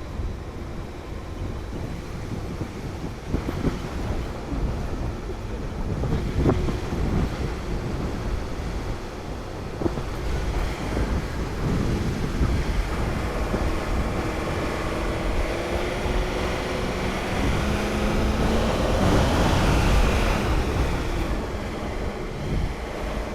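Vehicle driving, its low rumble under wind rushing over the microphone. A faint engine tone rises and grows louder for a few seconds near the end.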